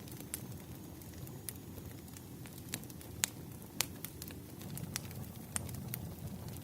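Firewood burning and crackling: a steady low rumble under scattered sharp pops, two of them loudest a little past three seconds in.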